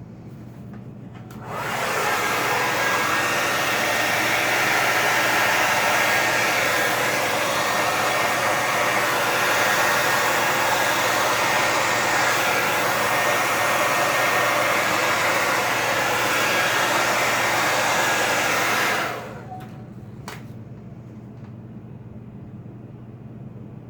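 Hair dryer switched on about a second and a half in, blowing steadily for about seventeen seconds, then switched off abruptly; a faint click follows.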